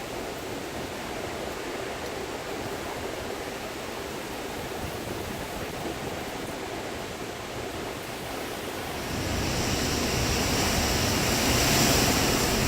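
Hurricane wind rushing steadily, swelling about nine seconds in as a stronger gust buffets the microphone.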